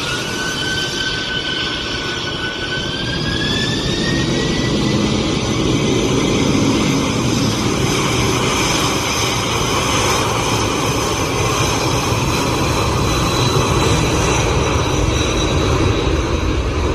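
Boeing 747-400 turbofan engines spooling up: a whine rises in pitch over the first few seconds and then holds steady, over a loud, deep jet rumble that grows louder, as the engines come up to takeoff power.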